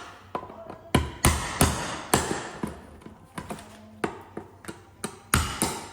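A series of irregular sharp taps and knocks, roughly two a second, each followed by a short ring.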